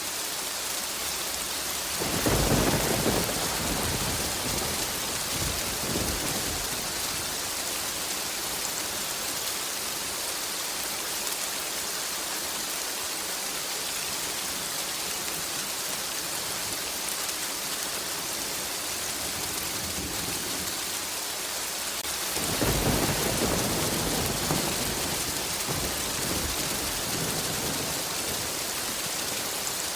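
Steady heavy rain hissing, with two rolls of rumbling thunder, one about two seconds in and another about twenty-two seconds in, each swelling and fading over a few seconds.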